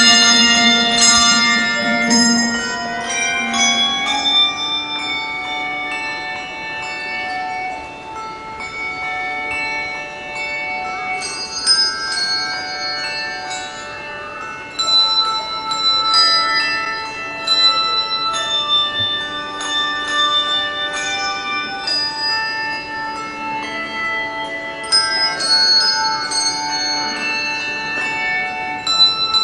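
Handbell ensemble playing a melody, with bells struck and left ringing so several notes overlap. The playing is louder at the start, softer for a stretch, then swells again about halfway through and near the end.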